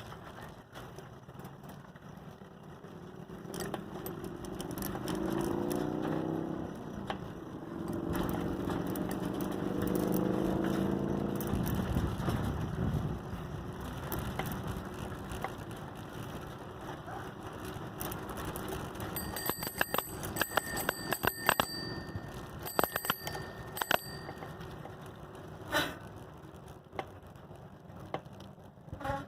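A bicycle bell is rung over and over in quick strikes for about five seconds, past the middle of the stretch, with a clear ringing tone. Earlier, a vehicle passes with a low hum that rises and falls in pitch.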